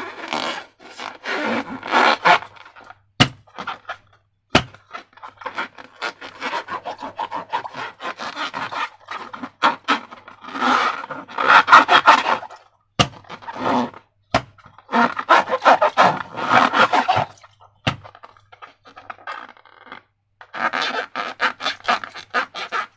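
Slime being worked by hand: sticky, crackling squishes in bursts of a second or two, with a few sharp clicks between them.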